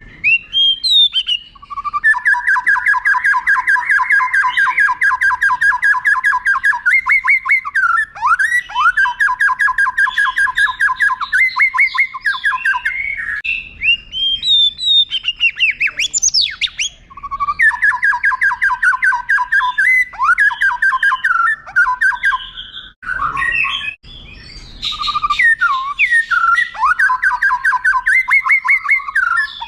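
White-rumped shama (murai batu) singing: long runs of fast repeated rolling notes broken by sweeping whistled phrases, in three bursts with short pauses between.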